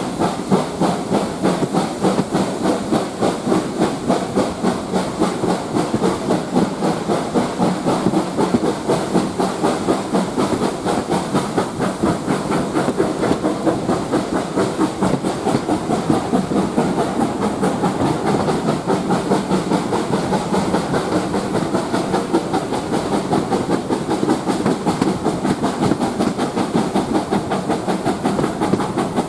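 Steam locomotive working along the line, with a steady rhythm of exhaust beats over a continuous steam hiss.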